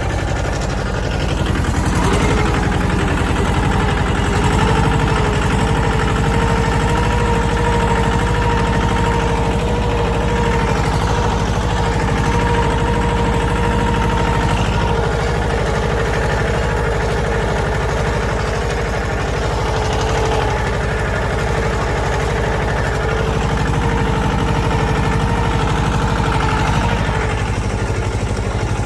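Mahindra Jivo 305 DI tractor's diesel engine running steadily, with a steady whine from about two seconds in until near the end.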